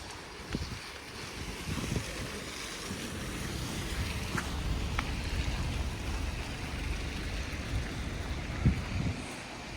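Snowstorm street ambience: a steady rush of wind and wind on the microphone, with a low rumble that builds through the middle and fades near the end, and a few soft thumps.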